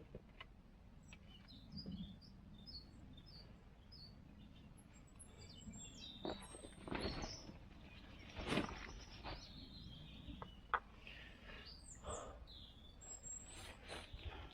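Small songbirds chirping faintly, short high notes scattered through the first half. From about six seconds in, a few rustling steps on the ground and a single sharp click.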